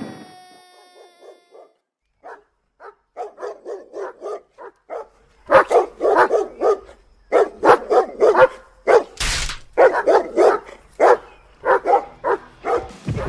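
A dog barking over and over: scattered, fainter barks at first, then louder, quicker barking from about five seconds in. A short burst of noise cuts in about nine seconds in.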